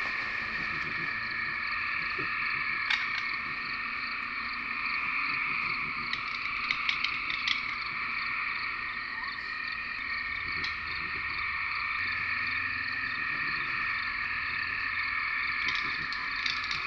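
A steady outdoor chorus of calling frogs and insects, dense and unbroken, with a few short clicks standing out above it.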